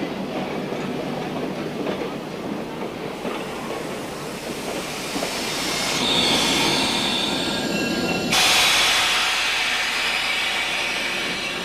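Train rolling along the track, then a high metallic squeal from the wheels setting in about six seconds in and jumping louder about eight seconds in as the train slows.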